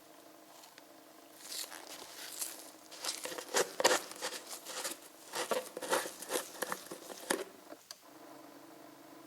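Irregular crinkling and rustling of something being handled, starting about a second and a half in and stopping near the end, over a faint steady hum.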